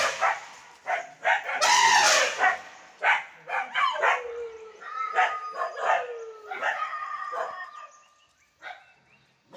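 Dog barking in a quick, excited run of barks, with a few longer drawn-out calls between them; the loudest comes about two seconds in, and the barking dies away near the end.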